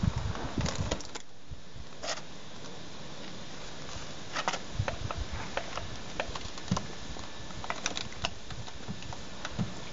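Scattered light clicks and rustles of hands handling a sheet of self-adhesive Vibroplast sound-deadening material against a car door panel, over a steady hiss.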